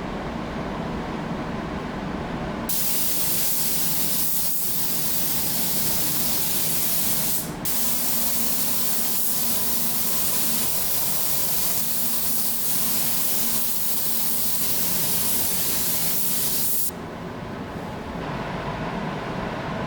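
Pneumatic paint spray gun hissing steadily for about fourteen seconds, with a momentary break about halfway through, over a low, steady hum.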